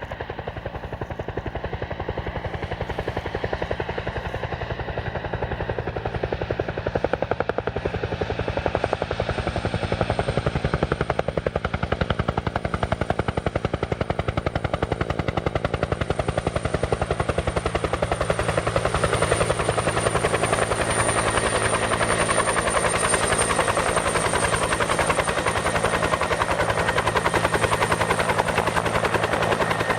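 Nighthawk Pro 280 racing quadcopter's brushless motors and propellers buzzing steadily in flight, getting louder about seven seconds in. A thin high-pitched whine runs over the buzz and grows stronger.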